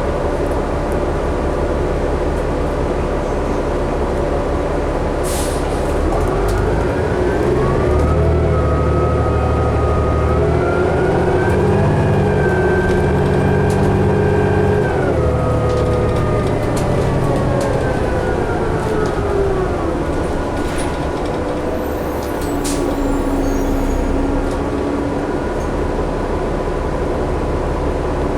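2011 New Flyer D60LFR articulated diesel bus heard from inside, the engine and drivetrain running under steady road noise. About six seconds in, the pitch climbs in steps as the bus accelerates, holds for a few seconds, then falls away as it eases off.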